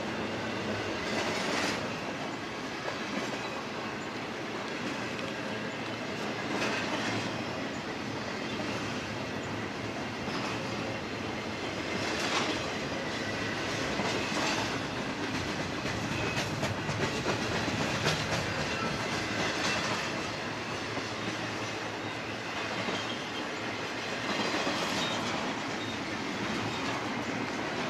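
Double-stack intermodal freight train's well cars rolling past: a steady rumble of steel wheels on rail, with clickety-clack surges every few seconds.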